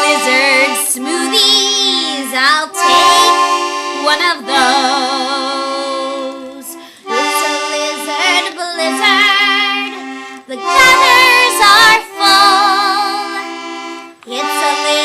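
Toy accordion playing a bouncy folk-polka tune, with steady held chords underneath and a higher wavering line over them that sounds like wordless singing or humming. The music is broken into phrases with short pauses between them.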